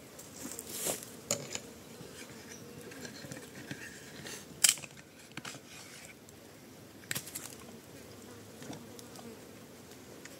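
Flying insects buzzing with a faint steady hum, broken by a few sharp clicks; the loudest click comes about halfway through.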